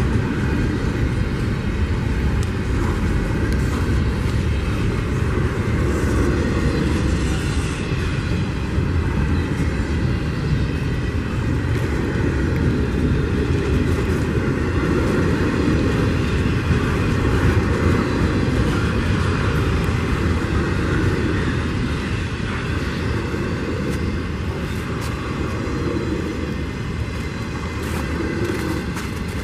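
Intermodal freight train rolling past close by: a steady rumble of steel wheels on rail from the stacked container and trailer cars, easing off a little in the last third.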